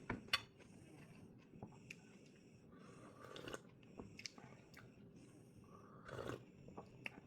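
A person chewing and eating food, with soft mouth noises and a few sharp clicks, the loudest just after the start.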